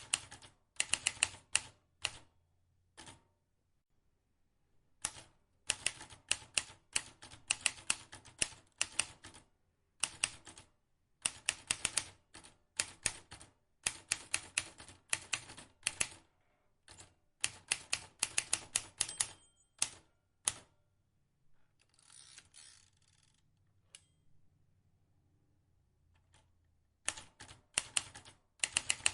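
Vintage manual typewriter being typed on: runs of sharp key clicks, several a second, broken by short pauses. About 22 seconds in there is a softer, noisier stretch without distinct clicks.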